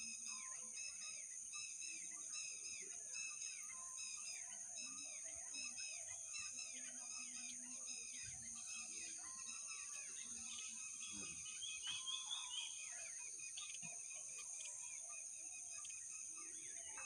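Birds chirping, a dense run of short repeated calls with a louder burst of calls about twelve seconds in, over a steady high-pitched hiss.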